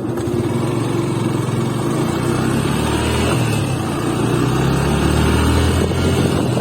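Motorcycle engine running under way, its pitch rising a little with the throttle and then easing back.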